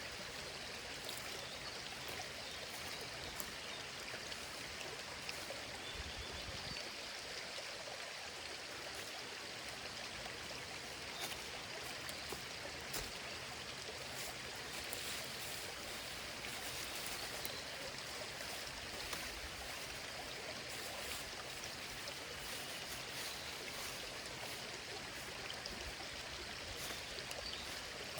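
Small stream running steadily, with a few faint clicks scattered through it.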